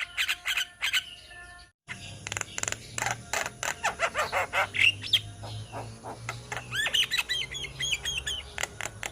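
Several Javan mynas (jalak kebo) calling together: rapid clicking chatter, harsh squawks and whistled notes, with a run of short slurred whistles near the end. The sound drops out for a moment about two seconds in.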